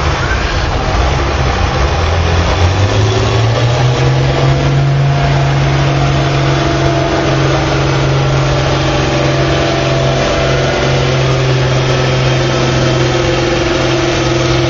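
Stock farm tractor's diesel engine rising in pitch over the first few seconds, then held at steady high revs under load while pulling the sled.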